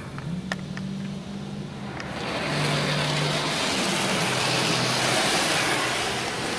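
Touchless car wash spray striking the car's body and glass, heard from inside the cabin as a loud even hiss that swells in about two seconds in: the surface protectant being applied. A low hum runs underneath through most of it.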